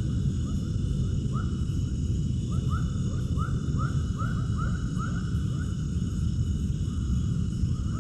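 Animal calls outdoors: many short upward-sliding calls repeating about once or twice a second, over a steady low rumble.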